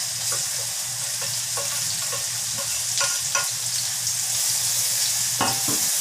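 Chopped shallots, garlic, chillies and ginger sizzling in hot oil in a wok as the spice mix is sautéed, with a steady high hiss. A spatula stirs and knocks against the wok a few times, most loudly near the end.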